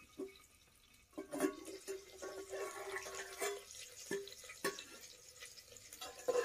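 Steel plate lid clinking as it is lifted off an aluminium cooker pot, then cauliflower frying in mustard oil sizzling while a metal spatula stirs it, knocking sharply against the pot several times.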